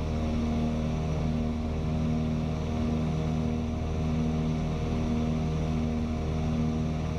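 Twin piston engines of a propeller airplane droning steadily in cruise. The drone rises and falls in a slow wavering beat, as two engines running slightly out of sync do.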